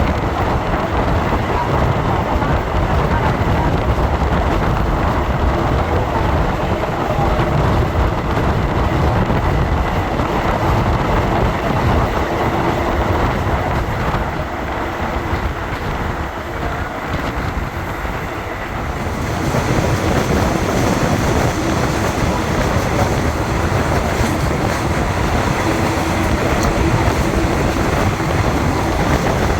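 Thai train running along the track: a steady rumble and rail noise. About two-thirds of the way through, a higher hiss joins in.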